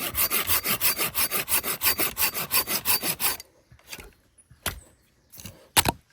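Hand saw cutting through firewood in quick, rhythmic back-and-forth strokes, stopping after about three and a half seconds, followed by a few light knocks and a sharp snap near the end.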